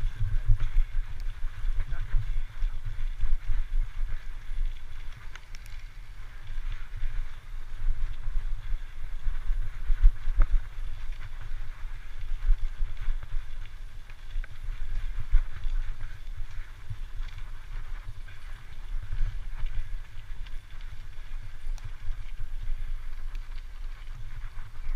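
Gusty low rumble of wind buffeting the microphone outdoors.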